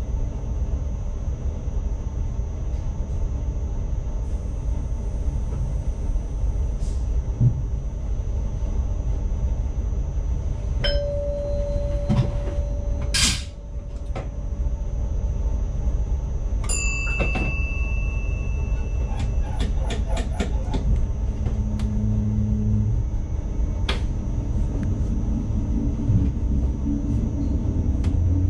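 Cab of an ICMm electric intercity train running along the line: a steady low rumble, with a short tone about a third of the way in, a sharp burst, then a ding-like chime of several tones followed by a run of clicks just past the middle.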